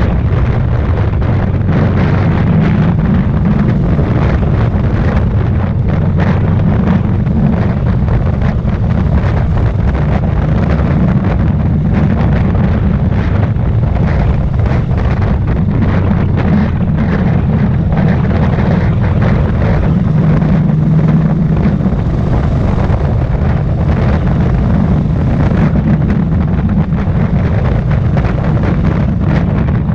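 Royal Enfield Thunderbird's single-cylinder engine running steadily under way, its low exhaust thump mixed with wind noise on the microphone.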